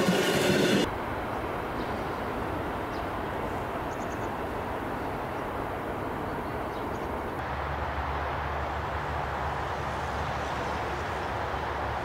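A train horn's held note cuts off sharply about a second in. It is followed by the steady rumble and rolling noise of a train running on the line, and a low hum joins it a little past halfway.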